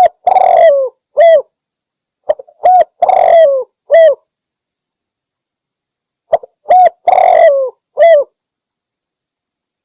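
Spotted dove (derkuku) cooing, three times. Each phrase is a couple of quick short notes, then a clipped coo, a longer coo that falls in pitch, and a final short coo, with a few seconds of silence between phrases. The calls are loud and sharp.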